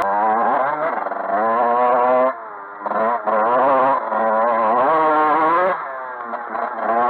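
Dirt bike engine revving under riding, its pitch rising and falling repeatedly. The sound drops away briefly a little over two seconds in as the throttle comes off, then picks up again.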